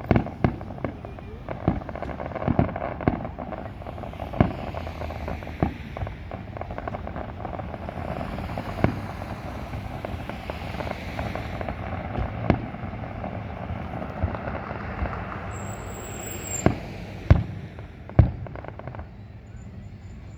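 Fireworks display: aerial shells bursting in a rapid, irregular string of sharp bangs over a continuous rumble and crackle, thinning out near the end.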